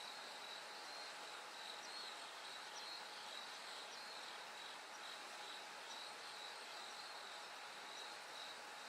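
Bell crickets and other autumn insects chirping steadily in a faint continuous chorus, a high pulsing ring over a soft hiss of background noise.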